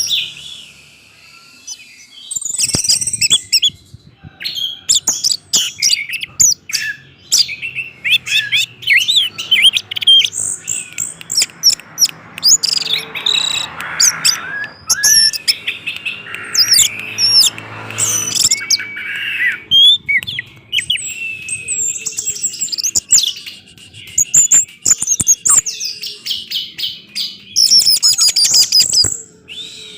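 Orange-headed thrush singing a fast, varied string of whistled phrases and chattering notes, broken by a few short pauses. A soft hiss sits under the song around the middle.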